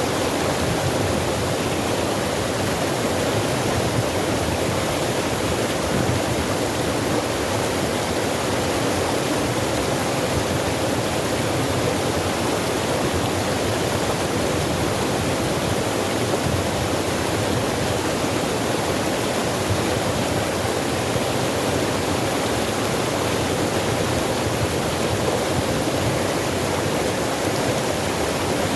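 Water rushing steadily over rocks in a forest stream, a constant even rush with no breaks.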